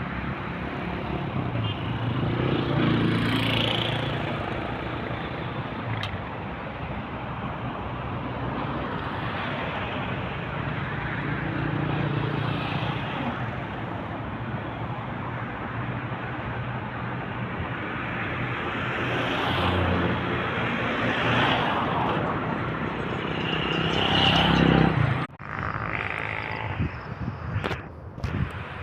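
Road traffic: vehicles passing one after another, each swelling up and fading away over a steady traffic hum. The sound drops out sharply for a moment near the end.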